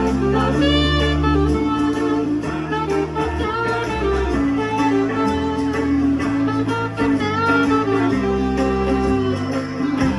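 Live band playing an instrumental ending to a song: held melody notes over a bass line that steps from note to note. The music stops at the very end.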